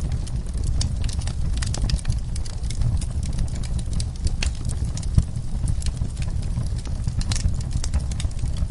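Wood fire in a fireplace crackling with irregular pops, one louder about halfway through, over a steady low rumble.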